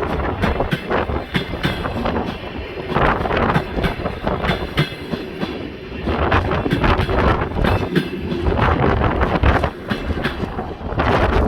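DR1A diesel multiple unit pulling into a station, its wheels clacking repeatedly over the rail joints over a low rumble.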